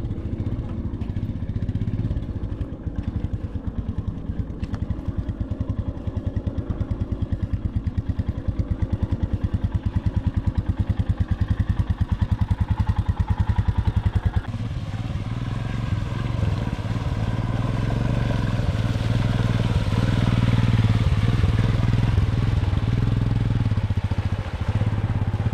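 Royal Enfield Himalayan's single-cylinder engine running with an even, pulsing beat at low revs. About fourteen seconds in the sound changes abruptly to a smoother, steadier run that grows louder as revs rise.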